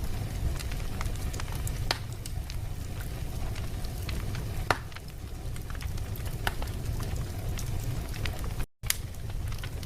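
Wood fire in a fireplace crackling, with scattered sharp pops over a steady low rumble. The sound cuts out completely for an instant near the end.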